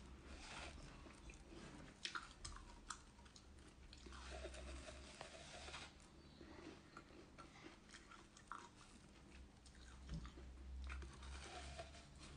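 Faint mouth sounds of a person biting and chewing a soft food held to the lips, with a few sharp crunchy clicks about two to three seconds in and again near ten seconds.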